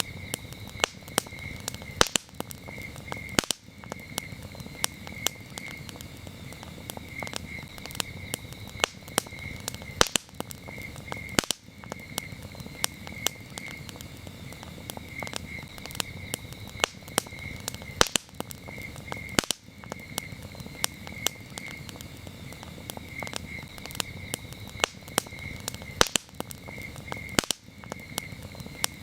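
Campfire crackling, with frequent small snaps and a few sharper pops, over a low rumble of burning wood. Crickets chirp steadily throughout in quick pulsed trills.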